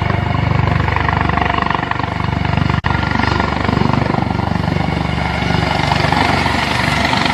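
Helicopter rotor and engine noise, loud and steady, with a sudden momentary dropout about three seconds in.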